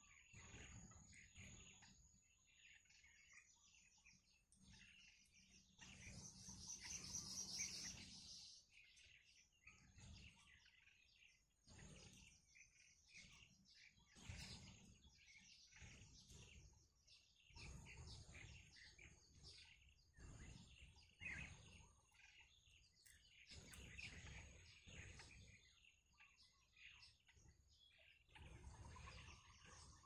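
Faint bird chirps scattered through the quiet, with a louder burst of high chirping about six seconds in that lasts a couple of seconds, over a faint steady high-pitched tone.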